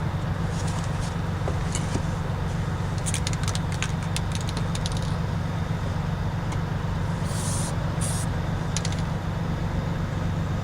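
A vehicle engine idles with a steady low hum throughout. Over it come light crackling clicks of handling a few seconds in, then two short hisses of an aerosol spray-adhesive can near the middle, as adhesive is sprayed to reglue the headliner fabric.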